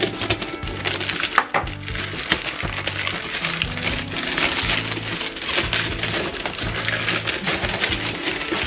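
Plastic packaging and a cardboard box being opened and handled, with dense crinkling and crackling and sharp clicks, over background music with a steady bass line.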